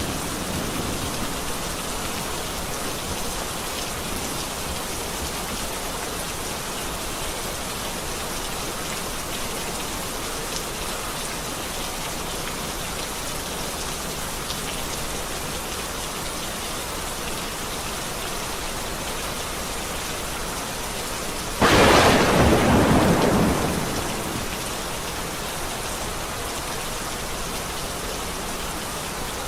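Steady rain falling, with one sudden loud thunderclap about three quarters of the way through that rumbles for about two seconds before fading back into the rain.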